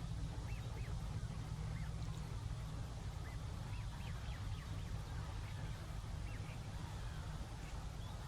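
Birds calling: a scattered series of short, high, arched call notes over a steady low rumble.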